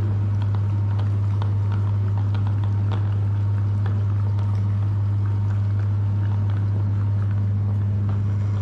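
Electric meat grinder running steadily with a deep constant motor hum, with faint irregular clicks and crackle over it.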